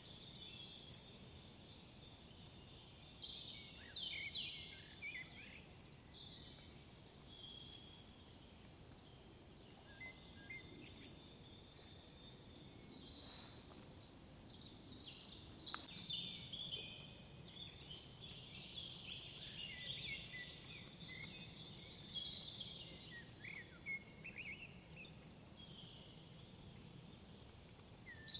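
Several songbirds singing in woodland: overlapping chirps and whistled phrases, with a very high, thin trill repeated a few times, over a faint steady background rumble.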